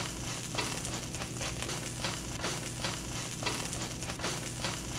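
A Beyond Meat plant-based burger patty frying in a hot steel wok, sizzling steadily with a constant patter of crackles, while a fork works at it. A low steady hum runs underneath.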